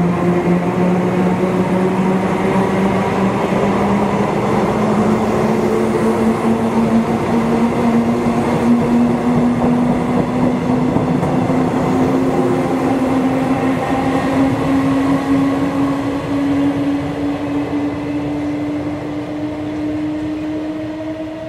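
Taiwan Railways EMU200-series (rebuilt as EMU1200) Tze-Chiang electric multiple unit accelerating, its DC traction motors giving a low tone that rises slowly and steadily in pitch over running noise, easing off near the end.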